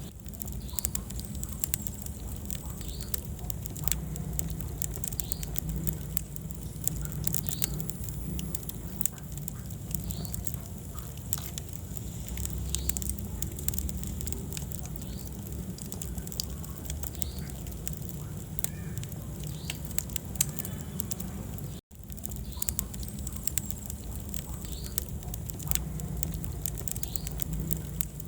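Wood fire burning in a fireplace: a steady low rumble of flames with frequent sharp crackles and pops. The sound cuts out for an instant about three-quarters of the way through.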